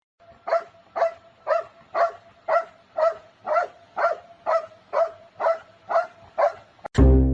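A dog barking over and over in short, high calls, evenly spaced at about two a second. Music starts abruptly near the end.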